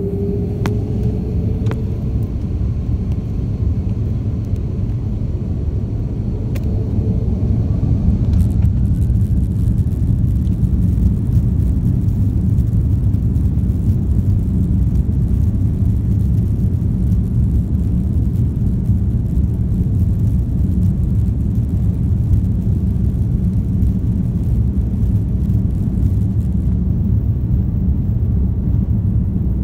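Jet airliner engines spooling up with a rising whine, then a steady loud rumble in the passenger cabin as the aircraft takes off.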